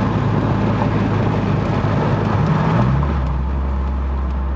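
Car engine heard from inside the cabin while driving, its note rising about two and a half seconds in, then settling into a steady low drone. The owner says it doesn't sound the same and suspects misfiring, burnt-out cylinders.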